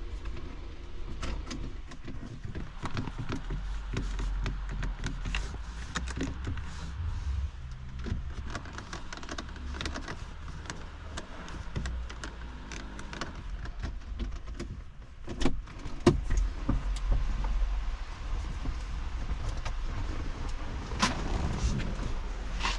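Clicks and knocks from a Volvo S60 being handled, over a low steady hum, with two sharp knocks about fifteen seconds in. The engine does not start, so no engine is running.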